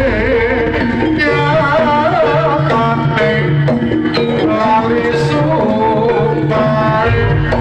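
East Javanese jaranan (kuda lumping) music: a gamelan-style ensemble with hand-played kendang drums keeping a steady beat under a wavering melody line.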